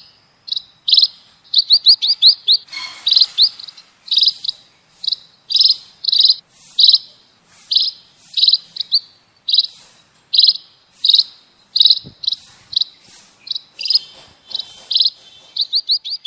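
Munias (emprit) giving short high chirps over and over, singly and in quick runs of two to five: a lure call used to draw munias in for trapping. A brief hiss about three seconds in.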